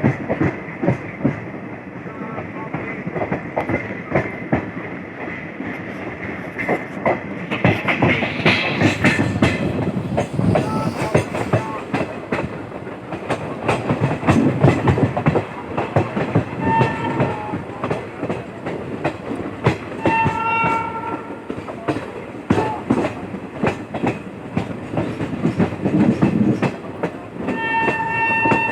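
Passenger train running at speed, its wheels clicking steadily over the rail joints under a continuous rumble. A train horn sounds briefly about two-thirds of the way in, again a few seconds later, and once more near the end.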